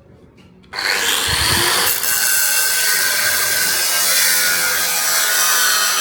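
A power tool grinding metal starts suddenly about a second in, after a few faint ticks, and runs on steady and loud with a harsh, hissing high edge.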